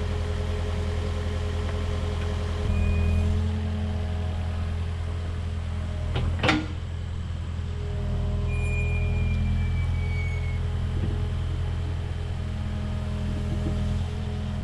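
Excavator's diesel engine running steadily and rising twice under hydraulic load, with a faint high whine as the boom and bucket work. About halfway through comes a single sharp smash as the pumpkin is dropped and breaks.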